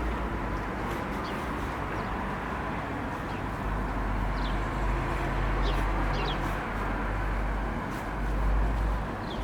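Outdoor background sound: a steady low rumble of distant traffic that swells twice, with a few short, faint bird chirps over it.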